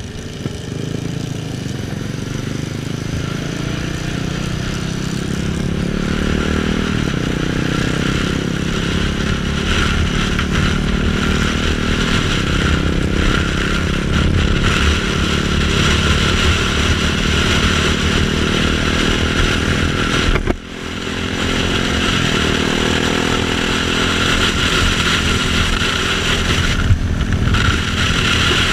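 KTM Duke 690's single-cylinder engine under way as the motorcycle is ridden. Its pitch climbs, steps down at a gear change about seven seconds in, then climbs again. It dips sharply for a moment about twenty seconds in, over a steady rush of wind.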